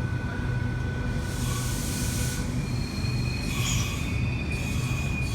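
V-set double-deck electric intercity train pulling slowly into the platform, thin high squeals from the wheels and brakes over a steady low running hum.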